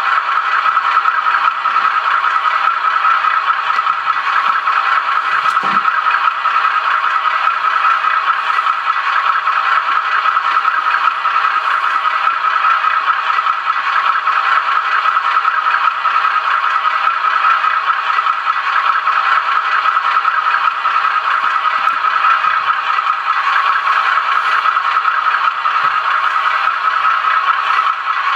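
OO-scale model locomotive running, a steady unbroken rattle with a brief low knock about six seconds in.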